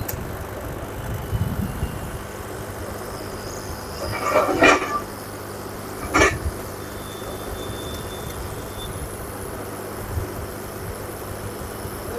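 Steady background rumble of road traffic, with two short, loud pitched sounds about four and six seconds in.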